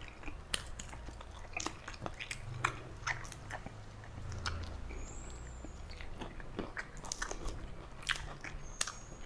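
A person chewing food close to the microphone, with wet mouth clicks coming irregularly, a few a second, over a faint low hum.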